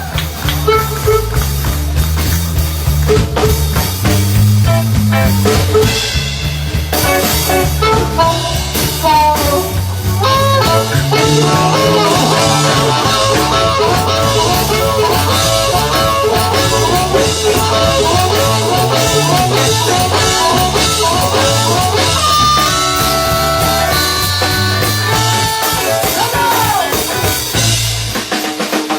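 Live blues band playing an instrumental break: drum kit and bass line under a lead melody line, with no singing; the bass drops out near the end.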